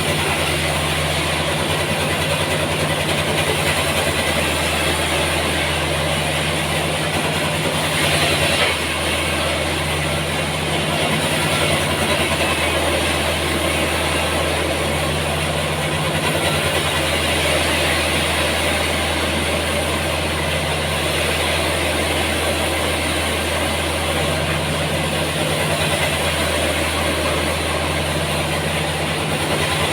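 Sawmill machinery running steadily: a low, constant engine-like hum under an even hiss, briefly louder about eight seconds in.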